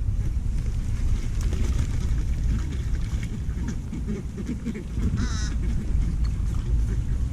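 Ducks quacking, with a loud call about five seconds in and softer calls around it, over a steady low rumble.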